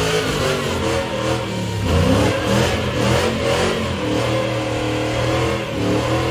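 A car engine running and revving, its pitch dipping and climbing again about two seconds in.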